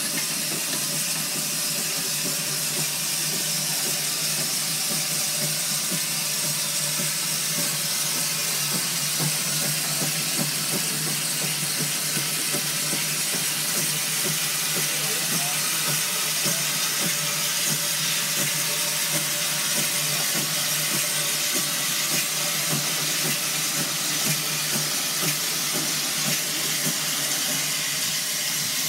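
Russell steam traction engine hissing steam steadily.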